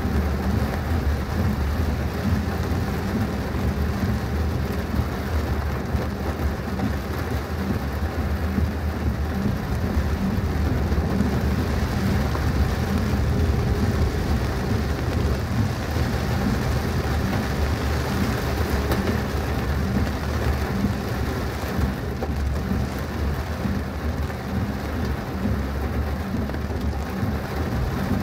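Heavy rain falling in a steady downpour, over a steady low rumble.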